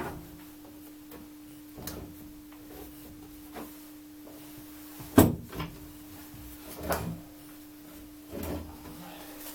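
A few separate knocks and clunks as firewood and newspaper are pushed into a stove's firebox, the loudest about five seconds in, over a steady low hum.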